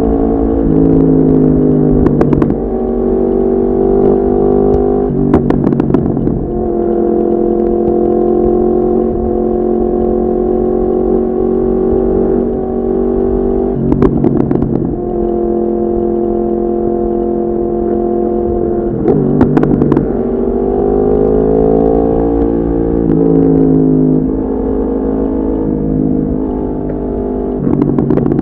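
Yamaha MT-10's crossplane inline-four with an Akrapovic exhaust, riding at a steady pace with a low rumble of wind underneath. About four times the engine note shifts, each time with a short crackling burst.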